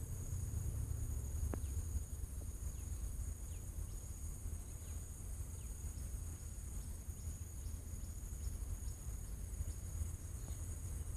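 Outdoor ambience: insects trilling steadily at a high pitch over a low steady rumble, with a run of short high chirps in the middle.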